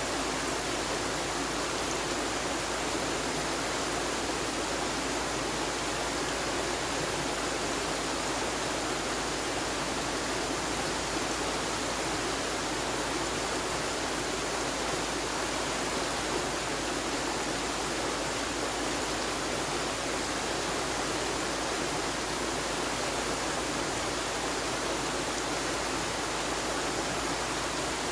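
Flowing river water: a steady, unbroken rushing.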